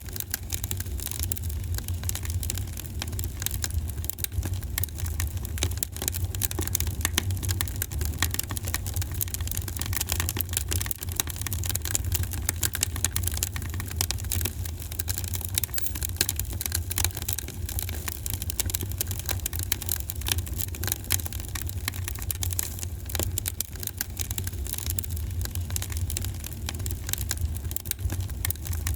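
Wood fire crackling in a fireplace: a dense, irregular run of small pops and snaps over a steady low sound.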